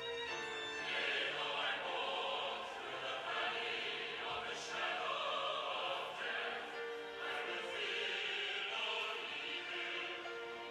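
Choir singing classical sacred music, coming in just after the start over sustained instrumental notes.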